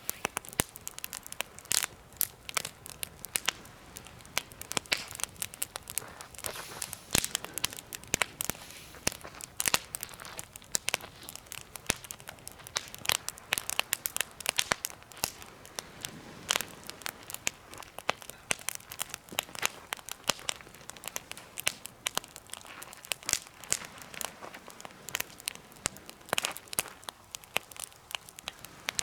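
Campfire burning in a homemade fire pit, the wood crackling with many irregular snaps and sharper pops.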